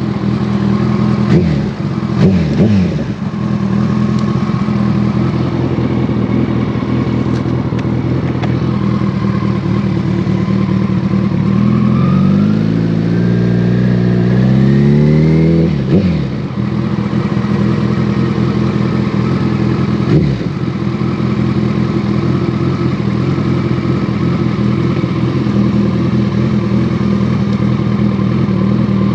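2014 Kawasaki ZX-14R's inline-four running through a full Brocks Alien Head 2 exhaust at a steady cruise. There are a couple of quick falling-pitch dips in the first few seconds. About halfway through it opens up, the exhaust note climbing as the bike accelerates, then drops sharply at an upshift and settles back to a steady cruise.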